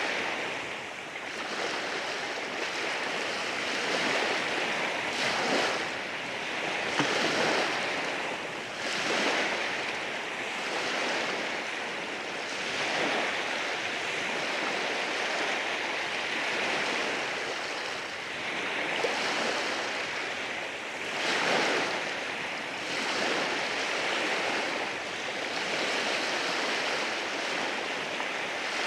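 Ocean waves breaking and washing over rocks, a continuous hissing wash that swells with each wave every few seconds, with a few brief sharp splashes or clicks of water among the stones.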